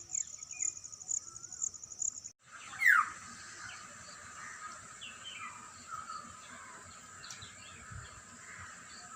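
Insects chirping in a high pulsing rhythm that cuts off after about two seconds. Then a steady high insect trill with birds calling over it, one louder call falling in pitch about three seconds in.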